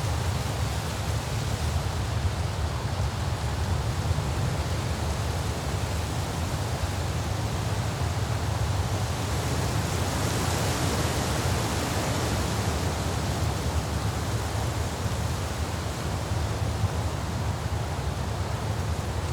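Steady rushing noise with a strong low rumble underneath, unchanging and without any distinct sounds.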